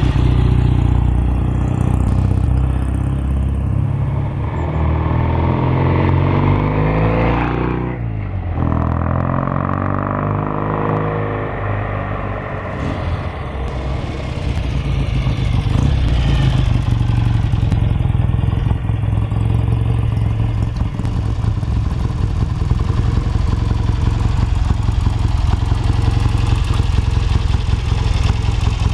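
1965 BSA Lightning Rocket's 650 cc parallel-twin engine running as the motorcycle is ridden. It passes close by about eight seconds in, then keeps running steadily.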